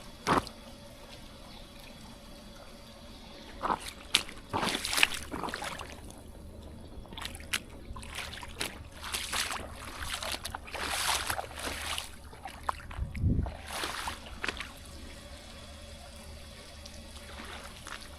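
Rainwater runoff trickling across a flooded farmyard after a heavy downpour, with louder stretches of water noise coming and going.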